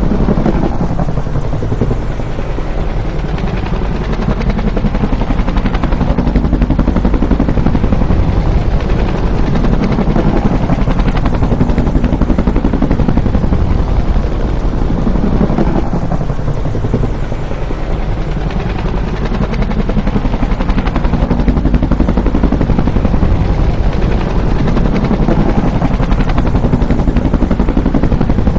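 Bell UH-1 "Huey" helicopter flying by: loud, continuous rotor and turbine noise that swells and eases, the pattern recurring about every fifteen seconds.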